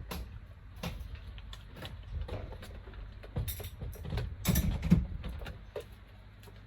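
Irregular knocks and clatter over a low rumble, with a louder cluster of knocks about four and a half seconds in.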